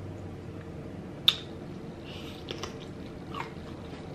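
Close-miked chewing of seafood, with wet, squishy mouth sounds and scattered short clicks. One sharp click comes about a second in.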